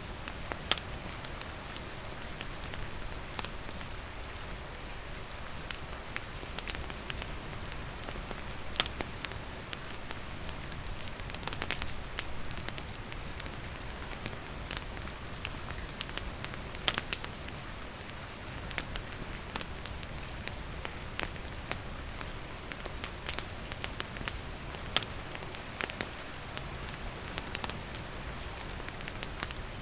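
Steady rain falling on a surface, with a wood fire crackling through it in scattered sharp pops, a few of them coming close together about twelve seconds in.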